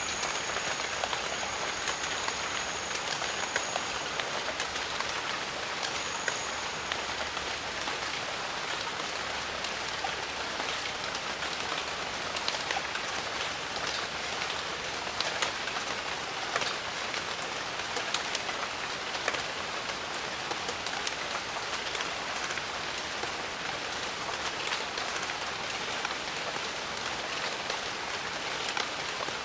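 Steady jungle rain: a dense, even hiss of rainfall with many individual drops landing as small ticks. A thin, steady high whine sounds over the rain for the first few seconds and again briefly a few seconds later.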